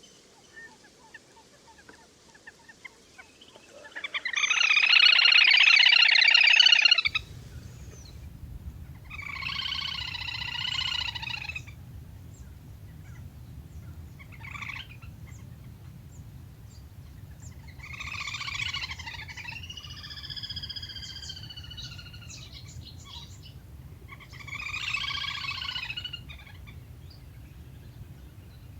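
Lesser whistling ducks calling in repeated bouts of whistled calls: a loud burst about four seconds in, then shorter bouts every few seconds, some gliding in pitch. A low steady hum runs under them from about seven seconds in.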